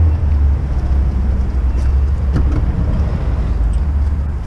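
Low, steady rumble of a minivan's engine idling, with a few faint clicks and knocks as scrap is handled.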